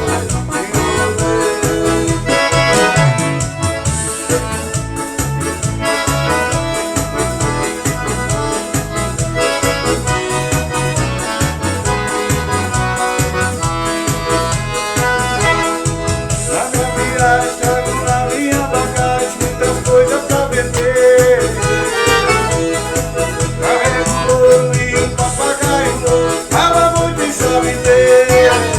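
Forró music played live by a band, led by accordion over a steady bass beat.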